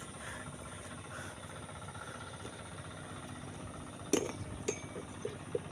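A steady low background hum, then near the end a sharp metallic knock, a second one that rings briefly, and three small clicks: metal striking metal, as of steel parts or bars knocking together during the climb.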